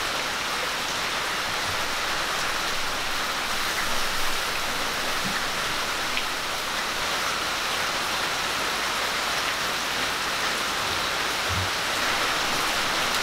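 Onion masala sizzling steadily in hot oil in a clay pan as sliced tomatoes are tipped in and stirred with a wooden spatula, with a few faint knocks of the spatula against the pan.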